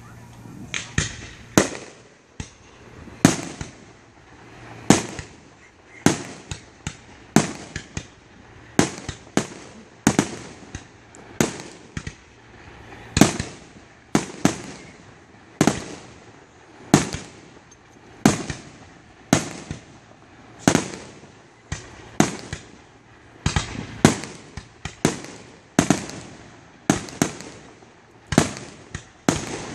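Fireworks display: aerial shells bursting in steady succession, about one or two sharp bangs a second, each trailing off briefly.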